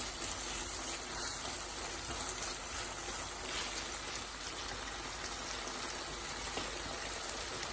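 Boneless chicken thigh pieces frying in oil and onion-tomato masala, sizzling steadily with a few faint clicks. The masala is nearly done, with the oil starting to separate.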